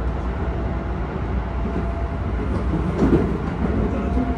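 Keisei 3000-series electric train with Toyo IGBT-VVVF traction running, heard from inside the passenger car: a steady low rumble of wheels and motors with a faint steady tone, and a louder clatter about three seconds in.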